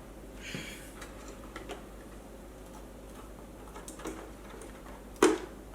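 Scattered small clicks and taps of parts and tools being handled while an electric unicycle is taken apart, with a short scrape about half a second in and one sharper click a little after five seconds.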